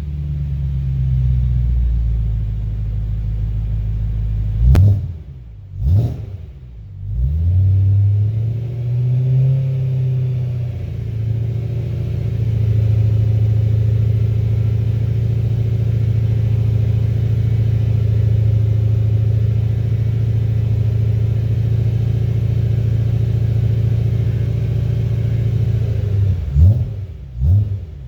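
V8 sports car exhaust. The engine note rises and falls over the first ten seconds, with a sharp rev about five seconds in, then holds a steady drone for about fifteen seconds, and ends with several quick throttle blips.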